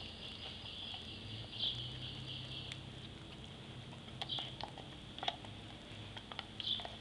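A dog mouthing and biting at an ice cube, giving a few short sharp clicks, mostly in the second half, over a steady high-pitched background hiss.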